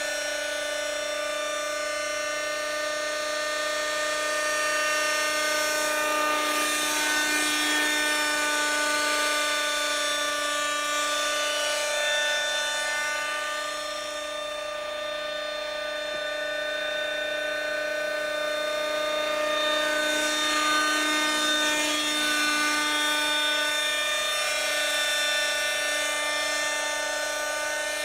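Schlüter Magic model helicopter's glow engine running steadily in flight, a high whine whose pitch wavers slightly and whose loudness swells and fades as the helicopter moves about.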